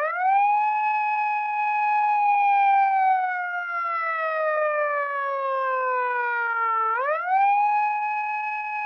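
Police car siren wailing: a held high note that slowly falls for several seconds, then sweeps sharply back up about seven seconds in and holds.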